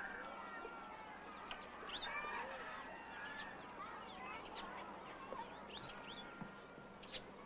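Many birds chirping and calling at once, short rising and falling notes overlapping throughout, over a faint steady hum.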